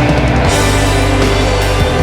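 Loud rock music from a band with guitars, bass and drums, playing a dense, sustained passage.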